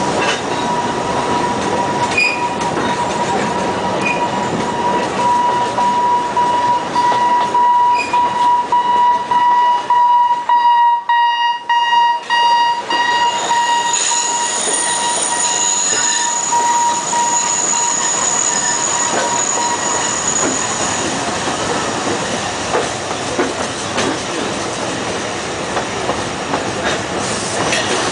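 Alishan Forest Railway narrow-gauge train carriages running, heard through an open carriage window. The wheels squeal with a steady high tone that stops about two-thirds of the way through, joined midway by a second, higher squeal.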